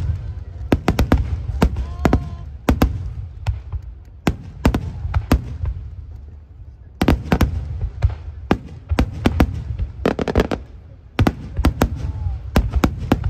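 Fireworks display: aerial shells bursting in rapid volleys of sharp bangs over a deep rumble. The bursts thin out in the middle, then another dense barrage starts about seven seconds in.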